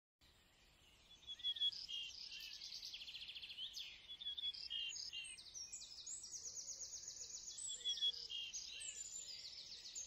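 A songbird singing a long, varied song of rapid high trills and chirps, starting about a second in.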